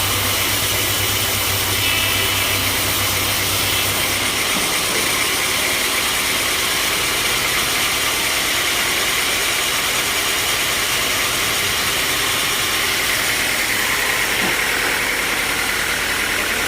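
Sawmill machinery running steadily, with a low hum that drops out about four seconds in and a higher whine that grows louder near the end.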